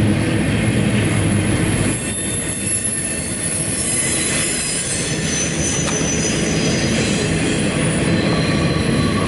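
CSX intermodal freight train's double-stack well cars rolling past at close range: steady rumble of steel wheels on rail, easing a little about two seconds in. Faint high wheel squeal joins from about four seconds in.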